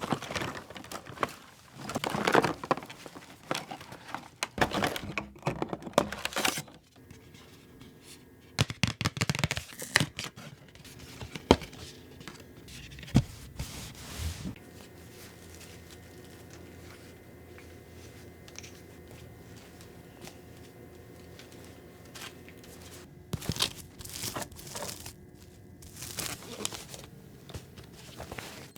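Doll packaging being handled and opened: irregular crinkling and tearing of packaging, in bursts through the first half and again near the end, with a quieter lull in between.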